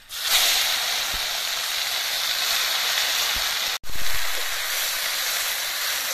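Garlic, ginger, mustard and cumin paste sizzling in hot oil in a kadai, starting suddenly as the paste hits the oil and going on as a steady, loud frying hiss. It drops out for an instant a little before four seconds in.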